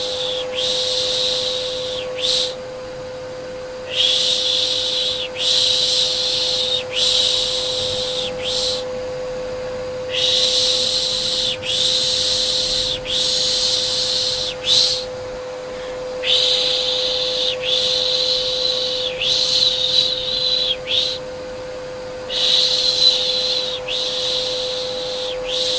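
Repeated soothing 'shh' shushing to calm a baby, each hiss about a second long with short breaks between, over a steady vacuum cleaner hum.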